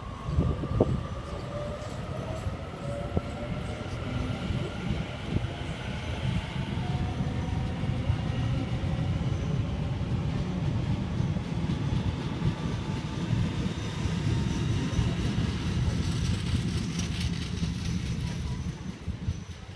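Sydney Trains Waratah (A set) electric train pulling out. Its traction motors whine in several tones that rise steadily in pitch as it gathers speed, over a steady rumble of wheels on rail. The sound eases off near the end.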